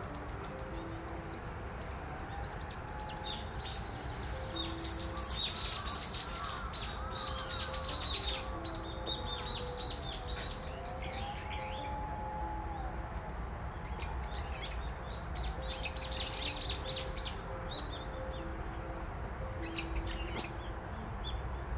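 Small birds chirping in quick, repeated flurries, over quiet background music with long held notes.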